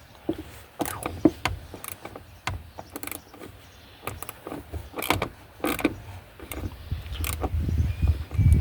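Hand socket ratchet clicking in irregular strokes while working a stiff car seat bolt loose.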